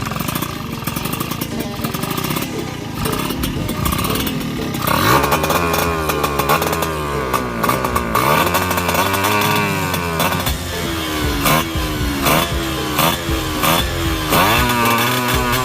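Suzuki Tornado GS two-stroke single-cylinder engine running steadily, then revved in repeated quick throttle blips from about five seconds in, each rising and falling in pitch. The carburettor is set rich ('wet'), so it sputters at high revs.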